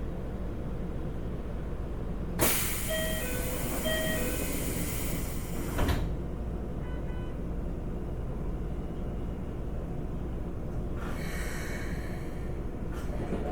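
Sliding passenger doors of a Keikyu 1500 series train closing: a sudden air hiss with a short two-time repeated chime, ending in a thump as the doors shut about six seconds in. Another air hiss comes near the end, over the steady hum of the air conditioning.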